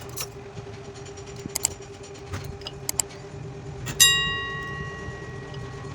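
Clicks and clinks of tools and metal parts being handled during amplifier wiring, over a steady hum. About four seconds in, a metal piece is struck or dropped and rings, dying away over about two seconds.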